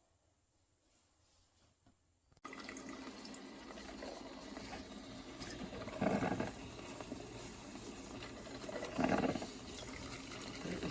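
Amazon Basics 5-cup drip coffee maker brewing: liquid running and splashing into the carafe. It starts abruptly about two seconds in, with two louder spurts later on.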